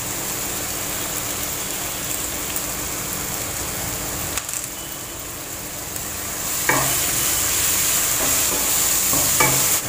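Sliced onions frying in hot coconut oil in a pan with a steady sizzle. About two-thirds of the way in, a wooden spatula starts stirring them and the sizzle gets louder.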